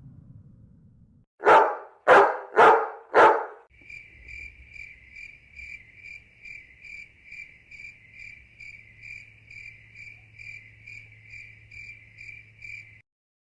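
A dog barks four times in quick succession, then a cricket chirps steadily at about two chirps a second until it stops shortly before the end.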